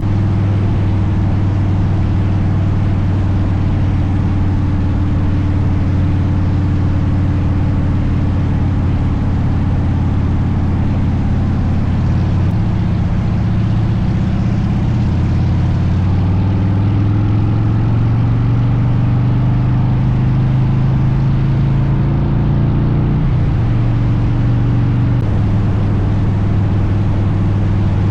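Motorcycle engine running at a steady cruise under a haze of road and wind noise. Its note climbs slowly through the second half, then drops suddenly about 23 seconds in.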